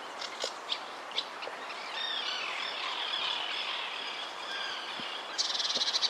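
Birds chirping and singing over a soft outdoor hiss, with a few short chirps first, then warbling song, and a fast trill near the end.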